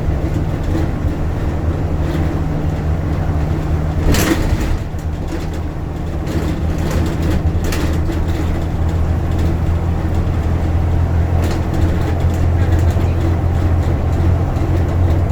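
Bus engine running steadily, heard from inside the passenger cabin as a low drone, with one short knock about four seconds in.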